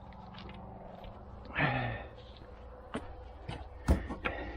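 A heavy sigh, then a few sharp knocks and clinks of hand tools being handled, the loudest about four seconds in.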